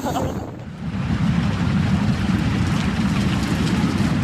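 Steady, loud rushing of a flood-swollen stream, starting after a brief break about half a second in.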